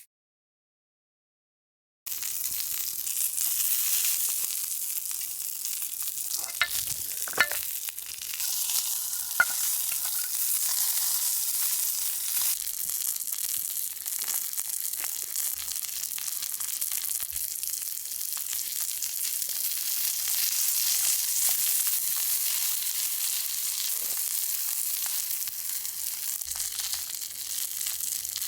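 Thick wagyu steak sizzling steadily on an iron griddle plate over a campfire. The sizzle starts after about two seconds of silence, and a few sharp pops break through it early on.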